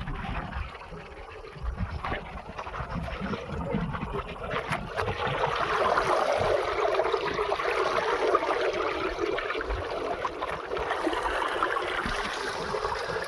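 Water trickling and splashing, louder from about two seconds in, with wind rumbling on the microphone.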